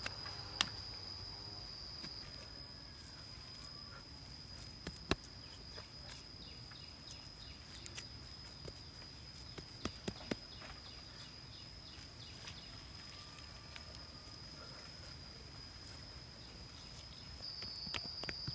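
Steady high-pitched insect drone with occasional sharp clicks and taps of sticks being handled.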